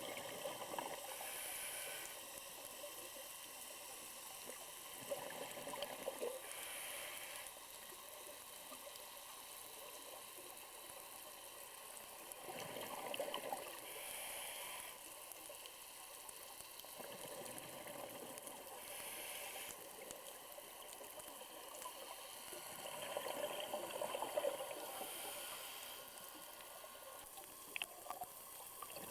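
Underwater scuba breathing: exhaled bubbles from a diver's regulator gurgle in bursts every five to six seconds, with a short hiss between them from the inhale.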